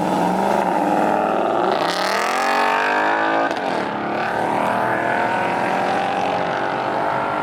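Car engine accelerating hard as it drives off. Its pitch climbs steeply about two seconds in, drops briefly, then rises again and holds high.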